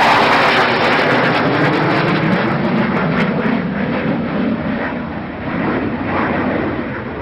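Aircraft flying past, its engine note sliding down in pitch as it goes by, loudest at first and easing off after about five seconds.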